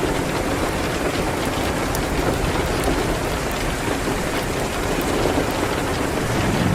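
Steady rain hitting a window, an even hiss over a low rumble, with faint scattered ticks.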